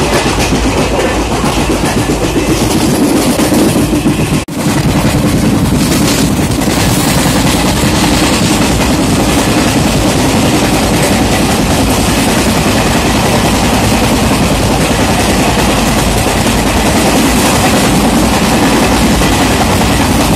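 Loud, steady noise of trains in motion: wheels running on rails, broken by a brief dropout about four and a half seconds in. After it, an express train's passenger coaches pass close alongside.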